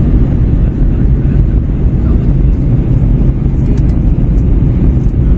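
Steady low rumble of airflow and jet engines inside the cabin of an Airbus A321-111 during its descent, heard from a window seat.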